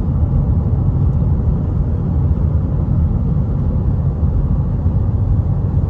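Car cabin noise while driving: a steady low rumble from the engine and tyres on the road.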